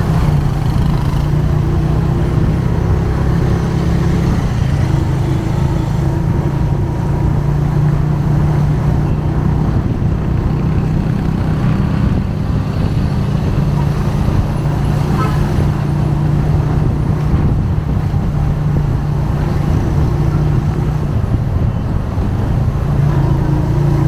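Motorcycle engine running steadily under way, with road and wind noise; its pitch dips briefly about four seconds in and then holds.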